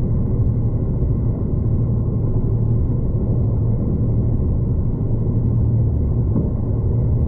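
Steady low rumble and drone of a V/Line passenger train, heard from on board.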